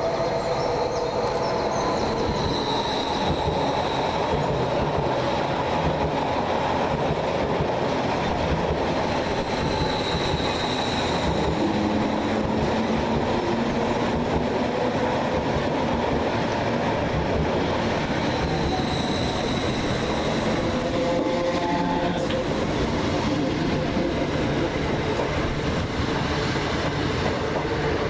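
Electric passenger train running through the station at a steady pace, a dense continuous rumble of wheels on rail. A faint high squeal from the wheels comes and goes about three times.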